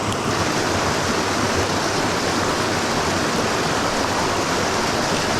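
Creek water rushing steadily over rocks, close to the microphone.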